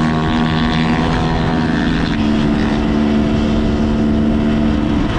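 Enduro motorcycle engine running steadily under way, its pitch stepping up about two seconds in as the revs rise.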